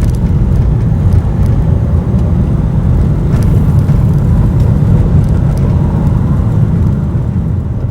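Loud, steady low rumble of a passing vehicle, with a few faint clicks, easing slightly near the end.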